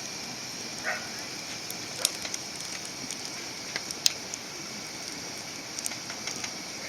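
Wood fire burning, a steady hiss broken by scattered sharp crackles and pops, the loudest about four seconds in.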